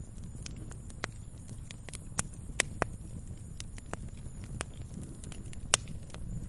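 Wood fire crackling with irregular sharp pops, a few louder than the rest, over a steady low rumble of snowstorm wind.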